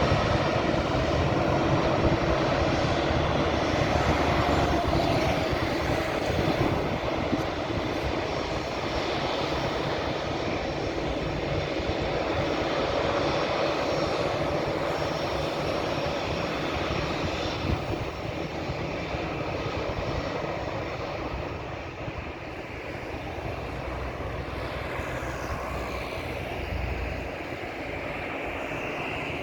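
Airbus A320 jet engines at takeoff power, a steady rumble that slowly fades as the airliner climbs away.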